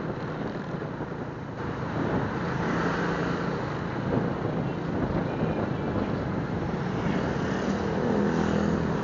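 Suzuki Smash 115's small single-cylinder four-stroke engine running steadily as the motorcycle rides along, growing a little louder about eight seconds in.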